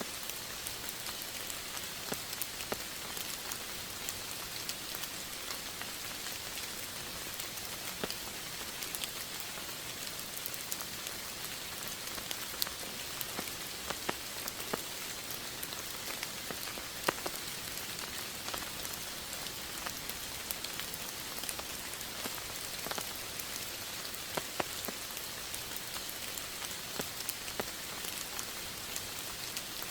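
Steady rain falling: a continuous even hiss with scattered sharper drop ticks, a few louder single drops standing out, the strongest about seventeen seconds in.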